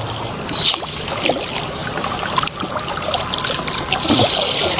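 Sea water splashing and trickling around a fishing boat and its net, over a low steady hum. There is a brief splash about half a second in and a louder rush of water near the end.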